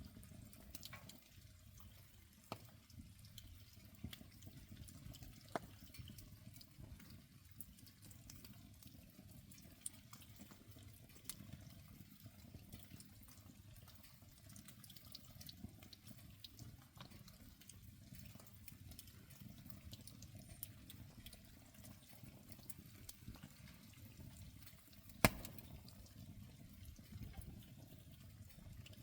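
Campfire of soaking-wet wood burning faintly: a low steady hiss and sizzle with scattered small crackles, and one sharp pop about 25 seconds in.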